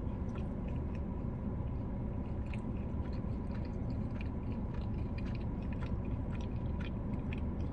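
Close-up chewing and wet mouth sounds of a person eating, with many small irregular clicks, over a steady low hum.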